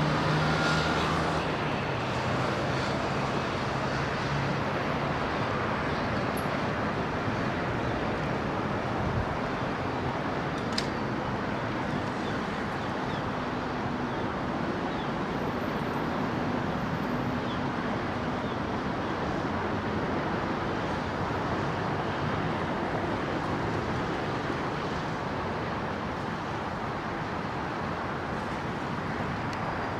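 Steady outdoor roar of airport noise: jet engine noise and traffic blended together, with a low engine hum that fades away in the first few seconds.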